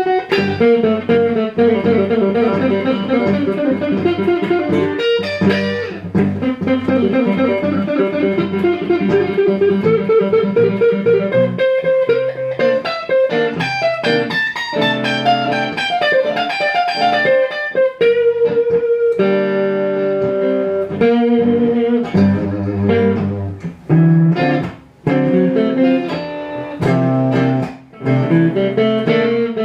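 Electric guitar playing lead lines: quick runs of single notes with longer held notes in between.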